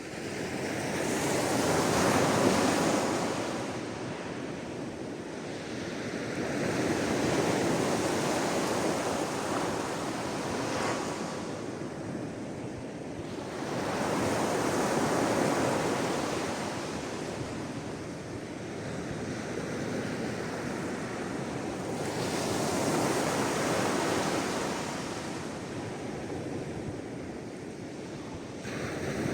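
Sea waves breaking and washing up the shore, rising and falling in slow swells every four to five seconds.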